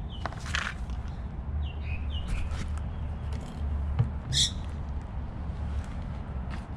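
Short bird chirps over a steady low rumble, with a sharp click about four seconds in.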